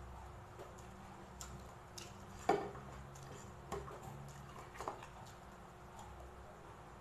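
Close-up chewing of crispy fried pork belly, with a few sharp crunching clicks, the loudest about two and a half seconds in.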